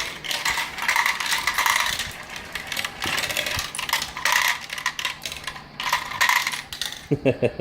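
Marbles rolling and clattering down a marble run's track, a steady stream of clicks and rattles as they drop through the pieces.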